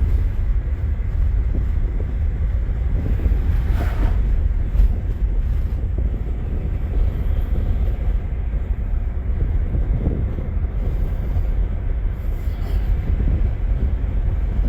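Steady rumble of wind and road noise inside a fast-moving car, the wind buffeting the microphone.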